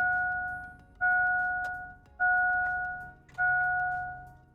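GMC Sierra's dashboard warning chime dinging four times, about once a second, each ding starting sharply and fading away.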